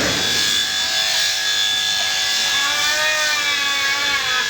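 Electric sheep-shearing handpiece running with a steady high whine, its cutter buzzing through the fleece. About halfway through, a sheep gives a long wavering bleat.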